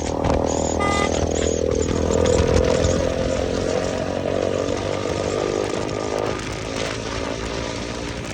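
KTM motorcycle engine with a freshly fitted aftermarket exhaust, running while riding; its note drops about two seconds in and then holds steady.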